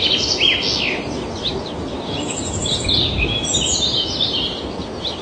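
Birds chirping and twittering in quick, high, overlapping notes, over a steady low background noise.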